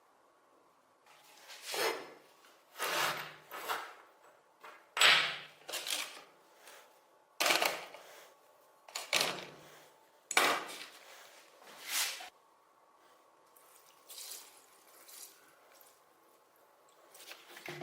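A series of short scrapes and clanks from metal parts being worked and handled, about one a second. They are loudest through the first twelve seconds, then come fewer and fainter.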